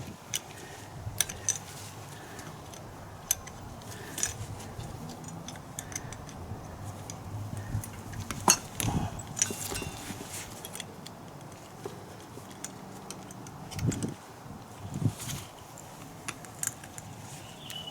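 Scattered metallic clinks and knocks of hand tools and scooter parts being handled and set down, with one sharper click about halfway through and a couple of duller knocks near the end.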